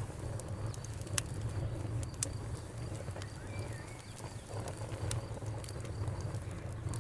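Wood fire crackling with a low rumble and sharp pops, the strongest about one and two seconds in. A cricket chirps steadily in the background through the first half, and a bird gives a short call near the middle.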